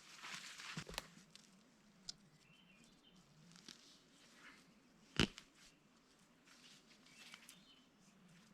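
Rustling and handling noises with a few sharp clicks, the loudest about five seconds in.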